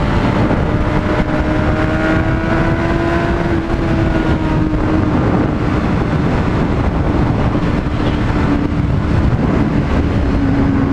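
Honda CBR600RR inline-four engine running at steady cruising revs under heavy wind rush, its note easing slowly lower through the second half.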